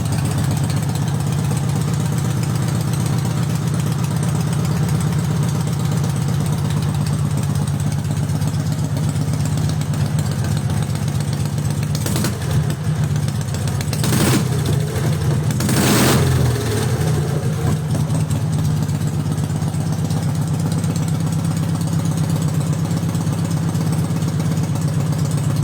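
Dnepr MT motorcycle's 650 cc flat-twin four-stroke engine, freshly overhauled with trimmed cylinders and reworked ports, idling steadily. Its revs pick up briefly a few times around the middle.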